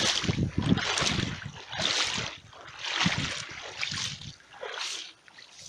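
Floodwater splashing in surges about once a second.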